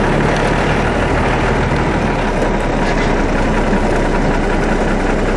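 Off-road vehicle's engine running steadily at low revs, heard from inside the cab as it creeps along at walking pace.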